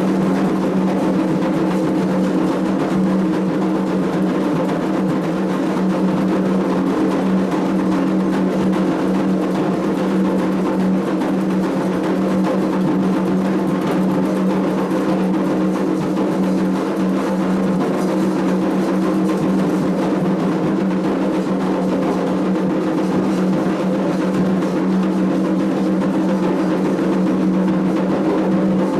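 Candomblé drumming on atabaque hand drums, dense and continuous without a break.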